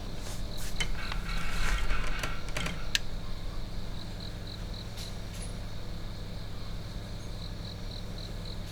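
Clicks and rattles of something being handled for about the first three seconds. After that a faint high chirp repeats evenly about three times a second over a steady low hum.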